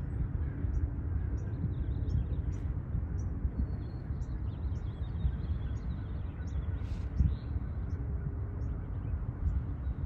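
Small birds chirping outdoors, short high chirps about once a second with a spell of twittering midway, over a steady low rumble.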